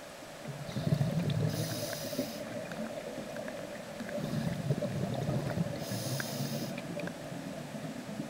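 Scuba diver breathing through a regulator underwater: two breaths, each a low bubbling rumble with a burst of hiss from the regulator.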